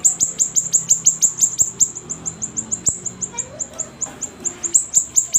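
A siri-siri songbird calling hard: a rapid run of sharp, high chirps, each sweeping quickly downward, about seven a second, with a brief pause about four seconds in.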